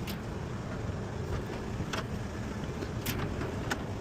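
Steady low rumble with a few short, sharp clicks.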